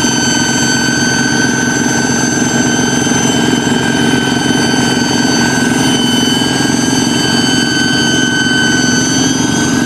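Kubota hand tractor's single-cylinder diesel engine running steadily, with a steady high whistle over the engine note: the 'fighter jet' sound these tractors are tuned for.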